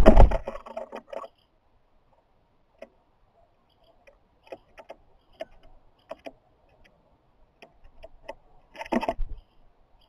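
Tapping, scratching and rattling clicks of a bird pecking and scrabbling close to the microphone, with two louder bursts of knocks and thumps: one at the start and one about nine seconds in.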